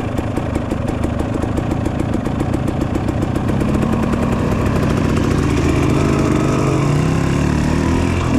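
Dirt bike engine running under way on a trail ride, its pitch and loudness climbing through the second half as it accelerates.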